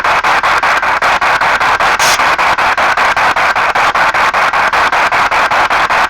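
P-SB7 spirit box sweeping through radio frequencies: loud static hiss chopped into about five short bursts a second as it jumps from station to station, with a brief sharper hiss about two seconds in.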